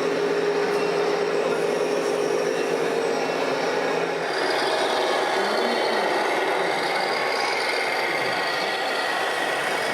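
Scale RC trucks and construction machines running, with a steady motor and gear whine. The pitch of the tones shifts about four seconds in.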